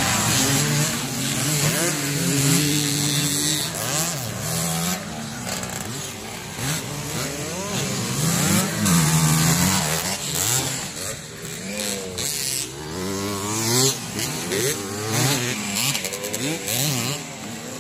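Several motocross dirt bikes racing, their engines revving up and down over and over and overlapping one another.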